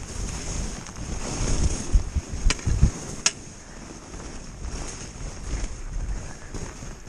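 Wind buffeting the microphone while skiing, with a steady high hiss of skis over snow. Low rumbling gusts grow louder about two seconds in, and there are two sharp clicks.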